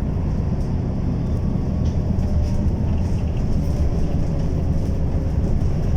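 Steady low rumble of a moving bus heard from inside the cabin: engine and road noise while it drives.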